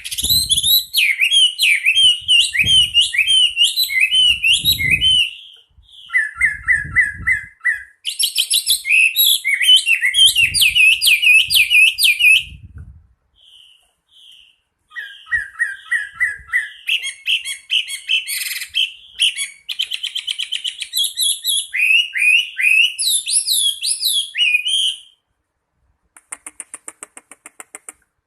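Hwamei (melodious laughingthrush) singing a long, varied song of rich whistled phrases, repeated notes and fast trills, with a brief lull about halfway. Near the end comes a short, fast buzzy rattle.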